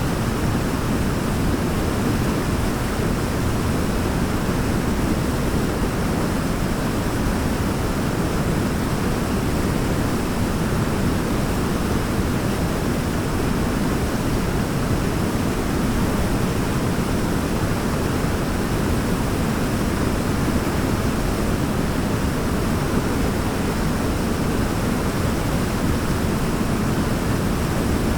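Waterfall rushing steadily, an even, deep hiss of falling water that does not change.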